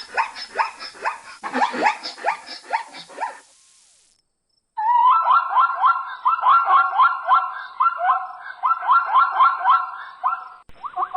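Rapid series of repeated animal calls, a short gap of silence about three and a half seconds in, then a second, different run of quick, evenly spaced rising calls.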